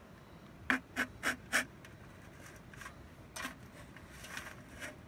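Four quick breathy puffs about 0.3 s apart about a second in, followed by a few fainter ones: a person huffing or panting.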